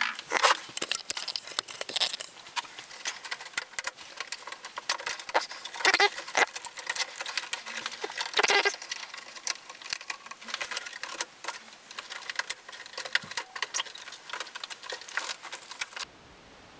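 Irregular clicks, taps and rattles of hands working on a VHS recorder's plastic and metal parts. They stop about a second before the end.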